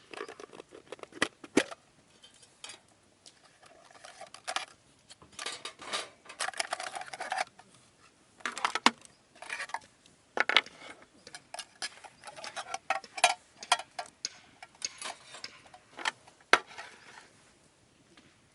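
Irregular clinks, taps and short scrapes of cutlery against a metal mess tin, with a few sharper clinks standing out.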